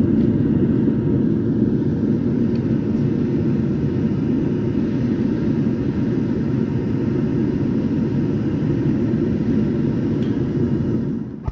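Metal-melting furnace burner running with a steady, loud roar, then stopping near the end as it is shut down before the pour.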